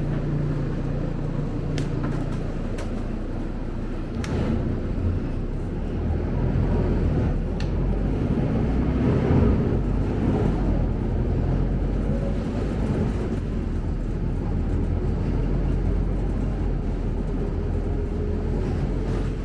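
Scania K270UB city bus under way, heard from inside the cabin: a steady low engine and road rumble, with a few sharp ticks or rattles in the first eight seconds or so.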